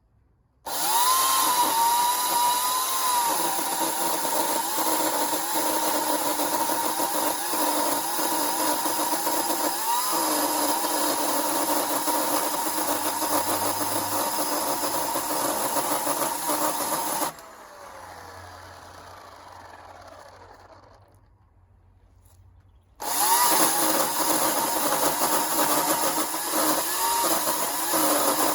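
Electric chainsaw with a thin Panther mini chain ripping walnut: it starts suddenly with a short rise in pitch and runs steadily. It cuts off about 17 seconds in and winds down to near quiet, then starts again about five seconds later.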